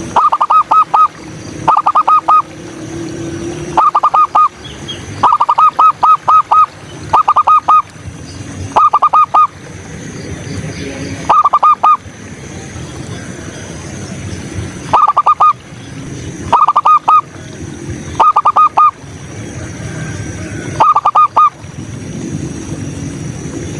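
Zebra dove (perkutut) cooing: short bursts of three to five quick staccato coo notes, repeated every second or two, over low background noise.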